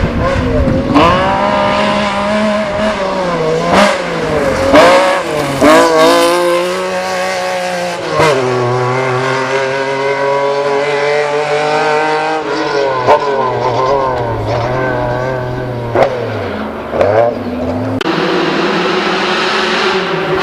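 Lancia Stratos's Ferrari Dino V6 engine being driven hard: revs climb and drop several times, with a long steady stretch in the middle and a few sharp cracks in between.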